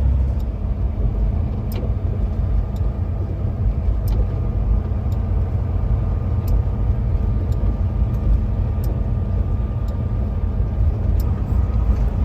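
A car-hauler truck driving, with the steady low rumble of its engine and road noise and faint sharp ticks about once a second.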